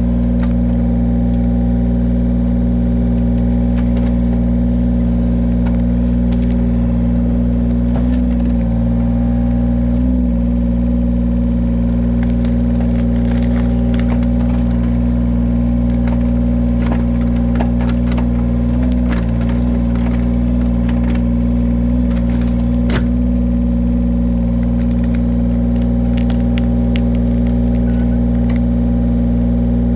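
Engine of a firewood-splitting machine running at a steady speed, with scattered sharp clicks and cracks and a few brief dips in pitch as it takes load.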